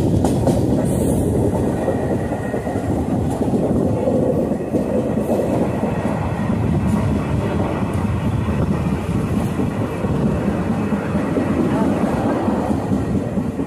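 Running noise of an Indian Railways passenger train, heard from aboard a coach: a loud, steady rumble of wheels on the rails.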